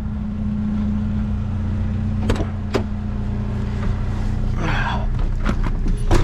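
A vehicle engine idling with a steady low hum, with a few sharp clicks and a brief rustle near the end.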